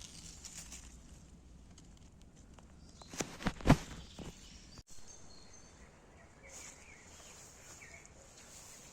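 Forest ambience with faint bird chirps, broken by a quick run of three or four knocks or thuds about three and a half seconds in.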